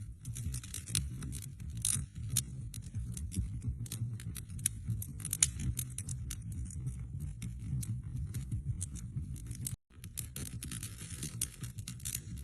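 Wood fire burning in a fireplace: a low steady rumble of flames with frequent sharp, irregular crackles and pops of burning wood. The sound cuts out completely for an instant about ten seconds in.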